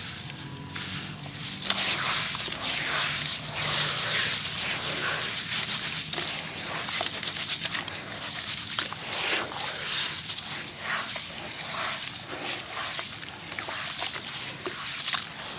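Black, grainy sand-cement pieces crumbling apart in water, making a continuous gritty crackle full of many small cracks.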